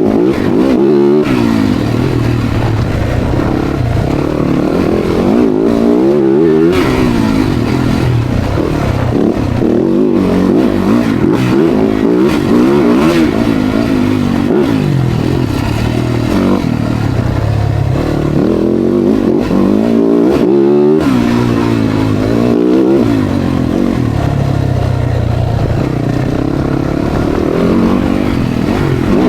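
Dirt bike being ridden, its engine revving up and dropping back again and again as the rider works the throttle.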